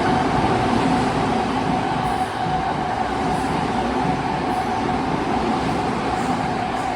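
Toyo Rapid 2000 series and E231 series electric commuter trains passing each other through a station at speed: a continuous heavy rumble of wheels on rails with a steady whine running through it, slowly easing near the end.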